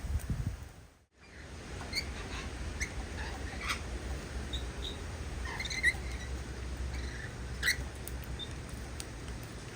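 Small birds giving short, high chirps and squeaks at irregular intervals over a low steady rumble; the loudest chirps come a little past the middle.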